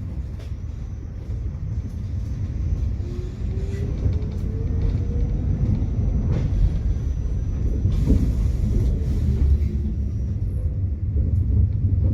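Tram running on its rails: a steady low rumble with a few sharp clicks, and a faint motor whine that rises in pitch between about three and five seconds in, then holds.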